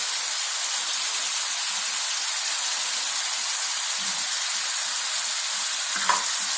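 Onion-and-spice curry paste frying in oil in a non-stick pan, with a steady sizzling hiss.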